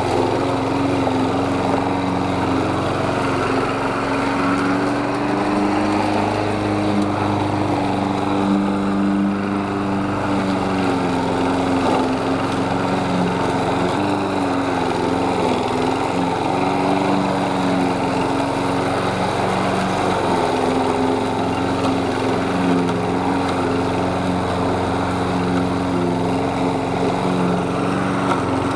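Lawn mower running steadily, its note sagging briefly a few times as it takes load in the grass.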